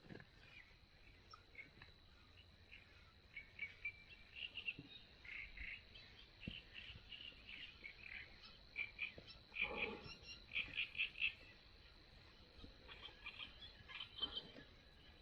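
Frogs calling by the water: short high chirping calls, with a quick run of rapid repeated calls in the middle, over a faint steady high tone.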